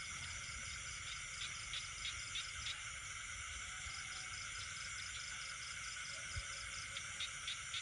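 Night chorus of crickets and other insects: several steady high trills layered together. A run of short repeated chirps comes in about a second and a half in, and again near the end.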